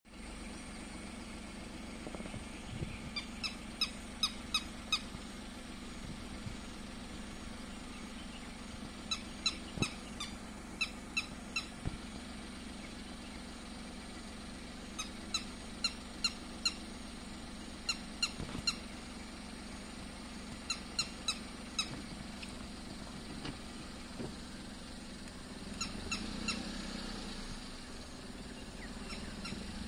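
A bird calling in repeated runs of four to six short, sharp, high notes, a run every few seconds, over a steady low hum.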